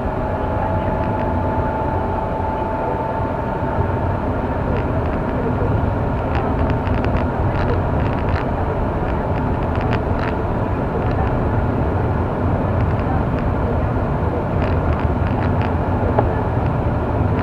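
Steady engine and tyre noise heard from inside a moving car. Scattered faint ticks come through in the middle and near the end.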